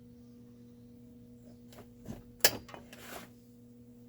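Small metal chainsaw parts and tools being handled: a few clicks and knocks about two seconds in, the loudest a single sharp clack.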